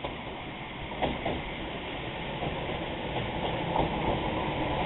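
Echizen Railway electric train approaching along the track, its rumble growing steadily louder, with a couple of sharp clicks about a second in.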